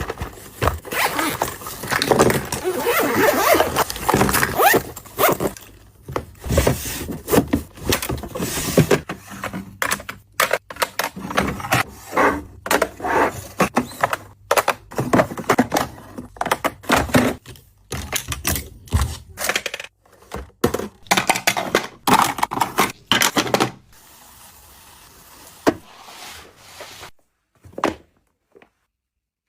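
Household items being handled during cleaning: a busy run of knocks, clicks, scrapes and rustling, thinning out about 24 seconds in and dropping to near silence just before the end.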